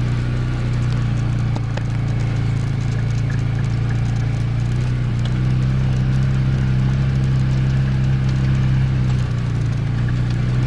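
An engine idling steadily: a low, even hum that shifts a little in pitch about five seconds in.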